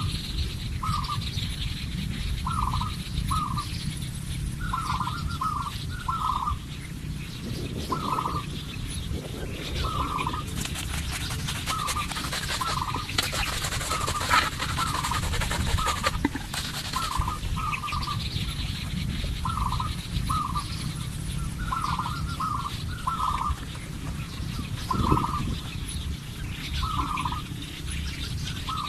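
Short bird calls, many of them, often two or three in quick succession and repeating about every second, over a steady background hiss and low rumble.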